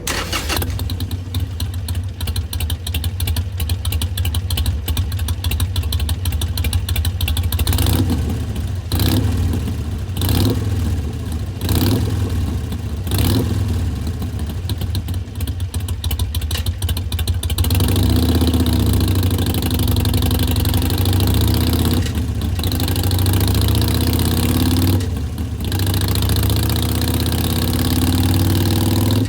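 2019 Harley-Davidson Iron 883's air-cooled 883 cc V-twin idling through Vance & Hines Twin Slash mufflers in an uneven three-beat ("sanbyoshi") rhythm. There are several short throttle blips about a third of the way in, and the engine runs fuller and higher for the second half.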